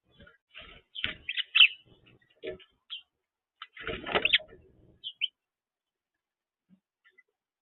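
Small birds at a backyard feeder chirping in short, quick calls, mixed with close knocks and flutters. The activity comes in two busy spells, about a second in and about four seconds in.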